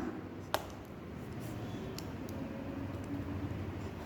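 Quiet room tone with a low steady hum, broken by one sharp click about half a second in and a few faint ticks a little later.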